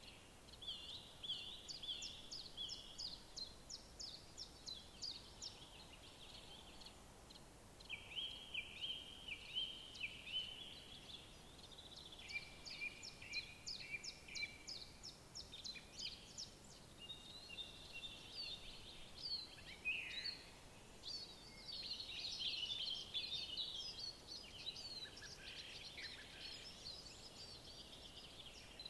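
Several songbirds singing: short repeated phrases and quick runs of rapid notes, overlapping more densely in the later part, over a faint steady background hiss.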